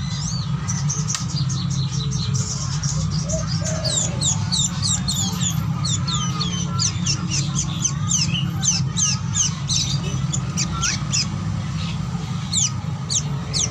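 Small birds chirping: a fast run of short, high, curving chirps that thins out near the end, over a steady low hum.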